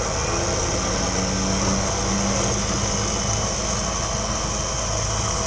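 A motor or machine running steadily, with a high hiss over a low hum, switched on just before.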